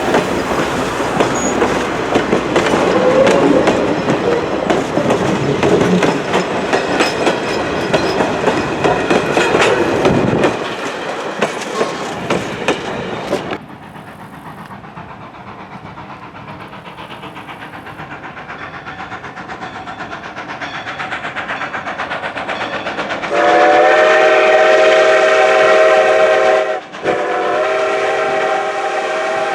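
Steam train passing close, its wheels clicking over the rail joints, cut off suddenly; then a quieter train noise slowly building before Norfolk & Western 611's multi-note chime steam whistle sounds a long blast, breaks briefly, and sounds again.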